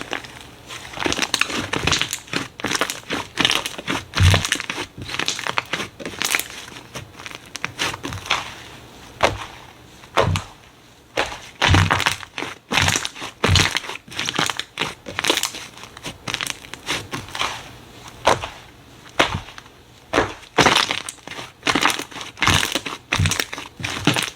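Slime being squeezed and pressed by hand, giving an irregular run of sharp crackles and pops with a few soft low thuds.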